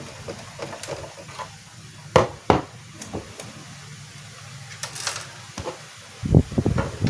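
Scattered light clicks and knocks, two sharp ones about two seconds in and a few more near the end, from the projector's parts being handled during reassembly.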